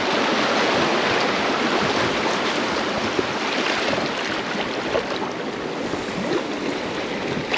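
River water rushing and splashing around a raft: a loud, steady whitewater hiss.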